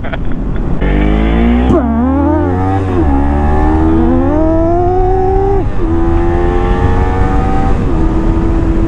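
Kawasaki Ninja 300's parallel-twin engine accelerating hard through the gears, its pitch climbing and then dropping at each of about four upshifts, over low wind rumble.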